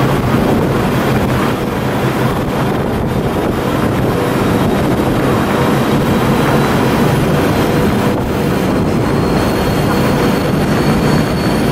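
Steady, loud noise of a CRH high-speed electric train standing at a station platform, with a faint steady hum running through it.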